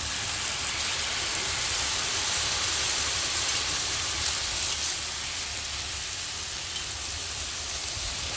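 Food frying in hot oil in a pan, a steady dense sizzle.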